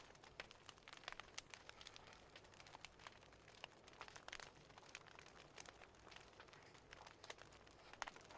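Faint wood fire crackling: irregular small pops and snaps over a soft hiss.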